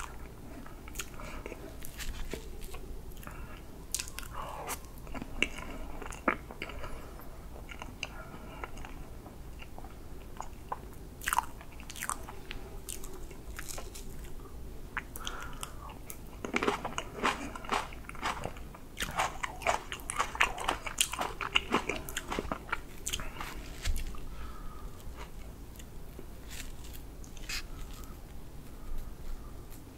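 Close-miked mouth sounds of eating soft whipped-cream chocolate cake: wet chewing and smacking with many sharp little clicks, busiest around the middle.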